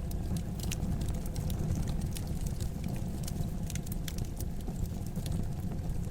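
Wood fire burning in a fireplace, crackling: frequent irregular sharp pops and snaps over a steady low rumble of the flames.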